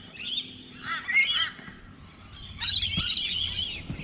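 Rainbow lorikeets calling in high, squawky chattering bursts, three clusters with the longest near the end.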